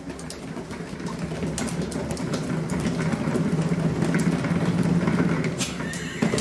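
A machine running with a steady low hum that grows louder over the first few seconds, with scattered clicks and rattles over it, then stops near the end.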